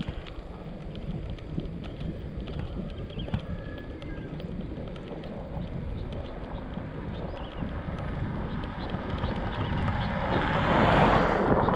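Wind rumbling on the microphone of a moving mountain bike, with small clicks and rattles. A louder rush of noise swells up about ten seconds in.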